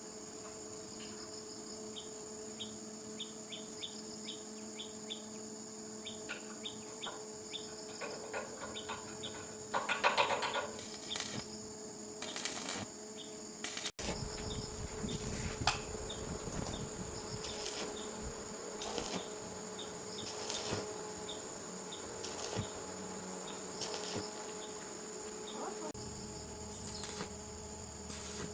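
Insects chirping steadily in the background, with scattered clicks and knocks and a brief louder clatter about ten seconds in.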